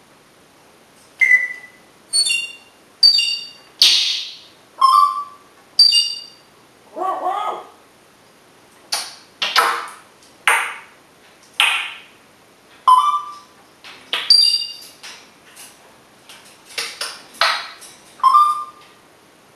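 African grey parrot making a string of short whistles, beeps and raspy squawks, one or two calls a second with brief gaps between them.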